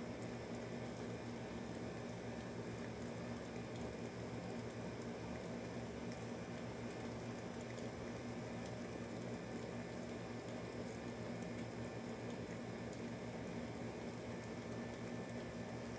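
Air conditioner running steadily with a low hum, mixed with rain falling and pattering outside an open door.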